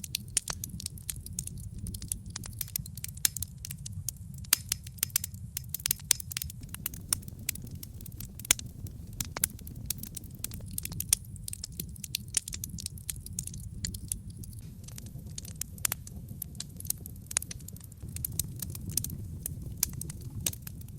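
Wood logs burning in a fireplace: a dense, irregular stream of sharp crackles and pops over a low, steady rush of flame.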